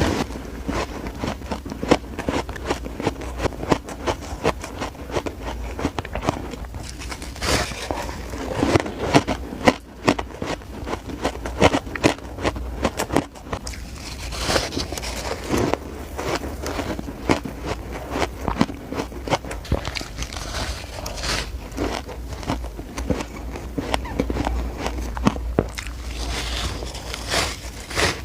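Close-miked biting and chewing of shaved ice: dense, irregular crunching and crackling, with louder bursts of crunches every few seconds.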